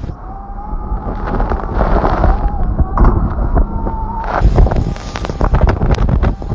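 Rumbling, crackling noise like wind buffeting a microphone, with a faint wavering tone for the first four seconds or so.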